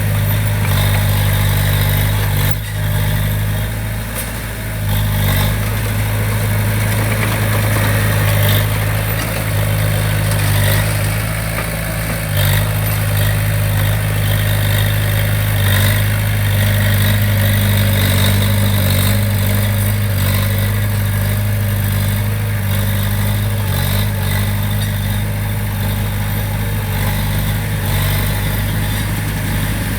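Heavy construction machine's diesel engine running steadily at an even low pitch, with a brief drop in level a few seconds in.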